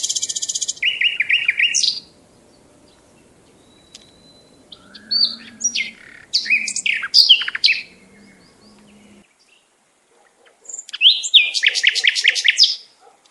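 Songbird chirps and song in three bursts: fast high trills and chirps at the start, scattered sharp calls from about five to eight seconds in, and a rapid trill of evenly spaced notes near the end.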